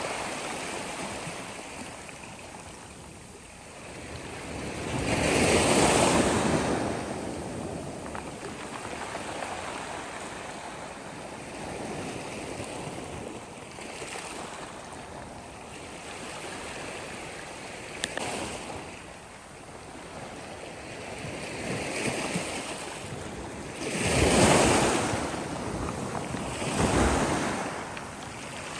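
Sea waves breaking and washing on a shore, rising and falling in slow surges: one about five seconds in and two louder ones near the end. A short click about eighteen seconds in.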